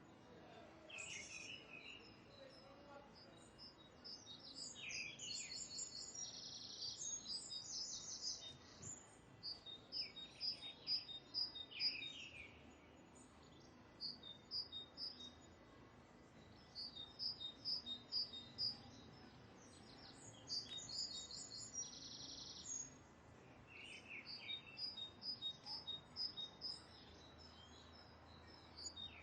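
Birds chirping, high-pitched phrases made of quick runs of repeated notes, coming again and again with short pauses between them.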